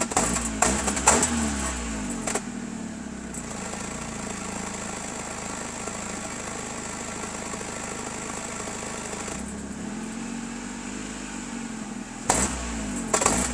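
Chevrolet Aveo 1.5-litre engine blipped a few times through its exhaust, each rev rising and falling with sharp bangs from the exhaust, then idling steadily for several seconds before more quick blips and bangs near the end.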